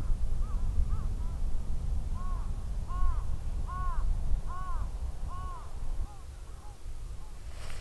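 A bird calling: a run of about a dozen short arched notes, growing louder then fading away, over a low rumble.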